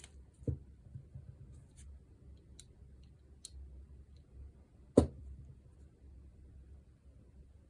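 Light clicks and taps of small parts of a disassembled disc grinder being handled, with a sharp knock about five seconds in.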